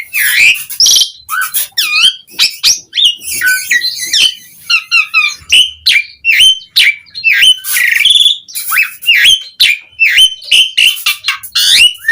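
Asian pied starling (jalak suren) singing a long, busy song of loud whistled notes that rise and fall, mixed with sharp clicks and harsh chatter, packed with varied imitated phrases.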